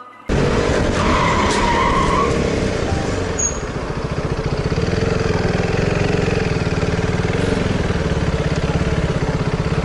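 A loud motor vehicle running, with a brief squeal about a second in. In the second half it settles into a fast, even pulsing.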